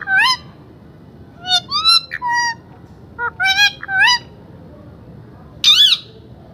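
Pet parrot calling in four short bursts of high, warbling, rising notes, like chattering talk; the last burst, near the end, is a loud shrill screech.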